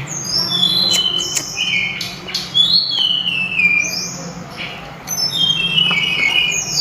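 A sulingan (tledekan gunung) songbird singing loud, clear whistled phrases, many of them falling in pitch, with a short pause a little past the middle. A steady low hum runs underneath.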